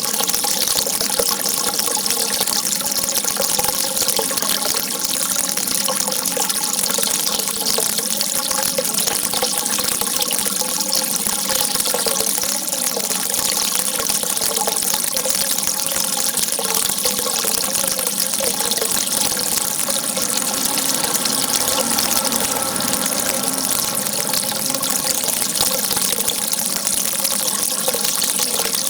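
Rushing, gushing water running steadily as a continuous even hiss, with no breaks or changes.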